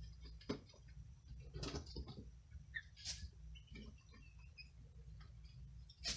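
Straw bedding rustling and crackling in irregular handfuls and scratches, with scattered sharp ticks; the sharpest is just before the end.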